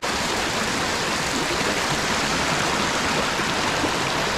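Stream water rushing over a riffle close by, a steady even rush that cuts in suddenly at the start.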